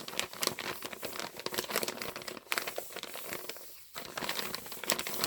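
A Tyvek pouch being crinkled and handled: a dense, continuous crackling rustle that eases off briefly about three and a half seconds in, then picks up again.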